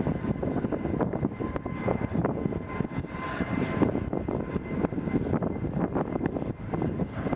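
Airliner engine noise mixed with wind buffeting the microphone, with a faint steady whine in it.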